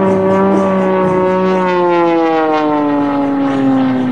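Sukhoi Su-31's nine-cylinder radial engine and propeller, loud, its pitch sliding steadily down over about three seconds.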